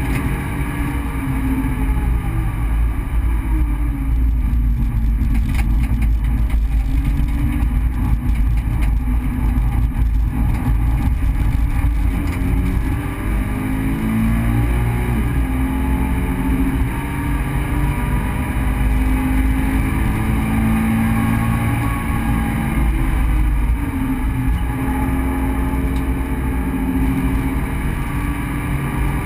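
Subaru BRZ's 2.0-litre flat-four engine heard from inside the cabin, pulling through a six-speed automatic gearbox. Its revs fall and rise again several times over a heavy low rumble of road and wind noise.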